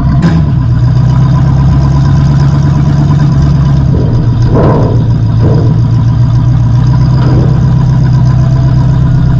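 Demolition derby car's engine running through open exhaust headers that stand up through the hood, heard from inside the stripped cockpit as a loud, steady drone. A short rise in the sound about four and a half seconds in.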